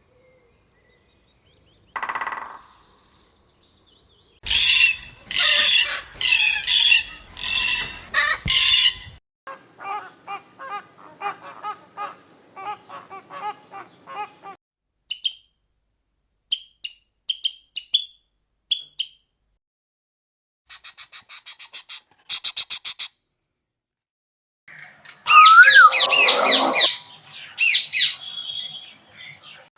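A run of different birds' calls and songs played one after another with short gaps: a burst of five loud calls, a stretch of chirping, short scattered chirps, fast trills, then the loudest calls near the end.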